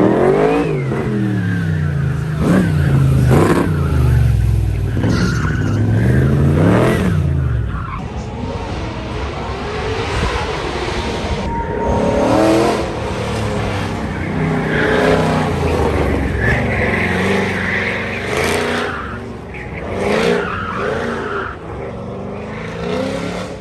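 Car engine revving hard and shifting, its pitch climbing and dropping back several times in the first eight seconds, then tyres squealing as the car is driven hard around an autocross course.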